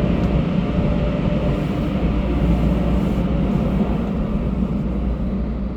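Automatic car wash machinery running, a steady low rumble.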